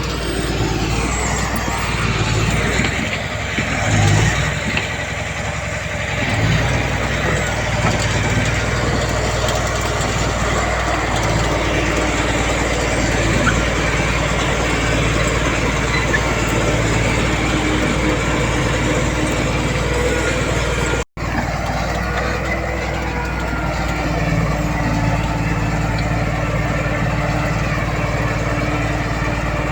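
Diesel engines of heavy earthmoving machinery running steadily under work. The sound breaks off for an instant about 21 seconds in.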